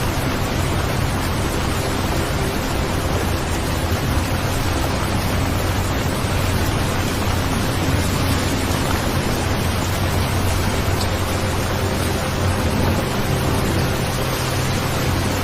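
Steady rain sound: an even hiss with a low rumble under it, and a faint steady tone of about 528 Hz mixed in.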